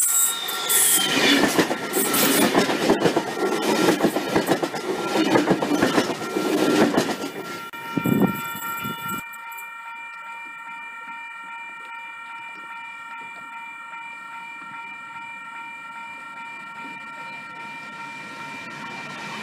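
A NSW V-set double-deck electric intercity train passing at speed close by, its wheels clattering over the rails, with a falling whine as it goes by. It stops abruptly about nine seconds in, leaving a much quieter steady background with a few thin high tones.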